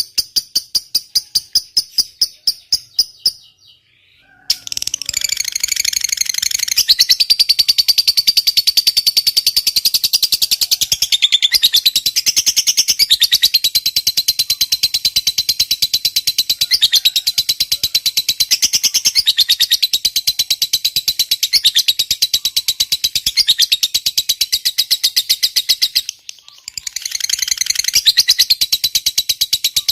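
Lovebird giving its long, rapid, high-pitched chattering trill (ngekek panjang), an unbroken run of about twenty seconds. It opens with a slower string of pulses and a short pause, and the trill breaks off for about a second near the end before starting again.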